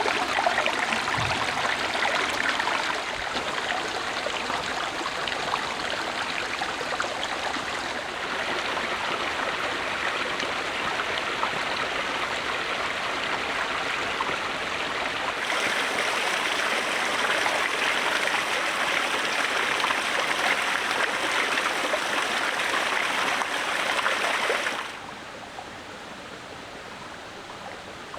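Steady rush of running water with no distinct strokes, changing abruptly about 8 and 15 seconds in and turning much quieter about 25 seconds in.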